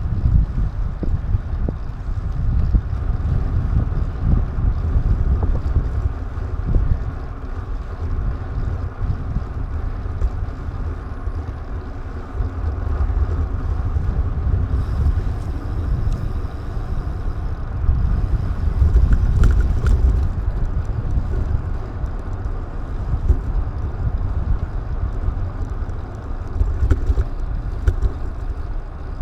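Wind buffeting the microphone of a DJI Action 2 camera while riding: a steady low rumble that swells and eases in gusts, loudest a little before two-thirds of the way through.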